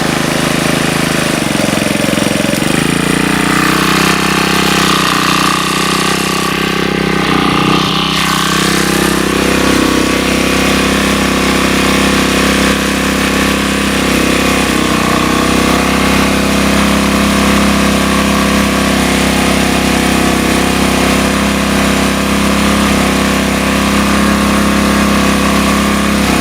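Sportsman GEN2000 portable generator's small gasoline engine running steadily, its pitch shifting a couple of seconds in and again about nine seconds in. It is running on a freshly replaced carburetor after a fuel-mixture adjustment, and the owner doubts it delivers full power: a hair dryer on it does not get hot and it makes the light dim.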